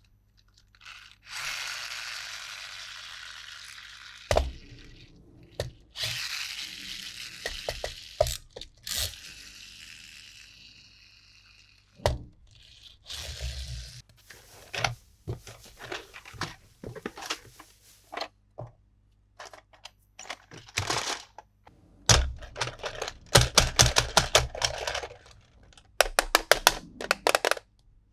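Plastic toy packaging being torn and crinkled in two long rustling stretches. These are followed by many sharp clicks and snaps of hard plastic pieces being handled, which come in quick runs near the end.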